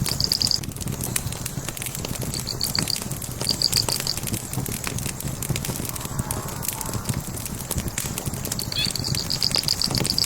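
Burning wood logs crackling, with frequent small sharp pops over a low steady rumble. A high, rapid trill comes in short bursts several times and runs on near the end.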